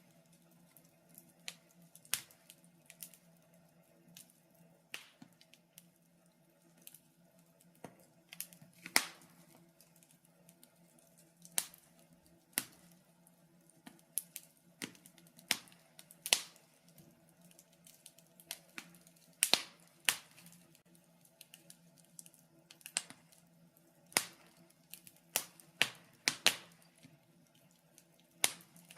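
Wood fire crackling in a fireplace: irregular sharp pops and snaps, sometimes several close together, sometimes seconds apart, over a faint steady hum.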